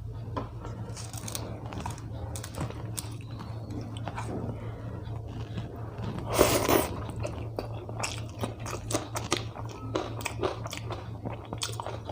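Close-miked chewing and mouth sounds of a person eating rice and dal by hand: a steady string of short wet clicks and smacks, with a louder burst about six seconds in.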